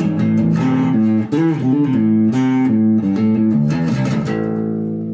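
Epiphone Grabber electric bass, on its single-coil pickup setting through a Tone Hammer preamp, playing a melodic line of notes with a couple of slides, then a held note ringing out near the end.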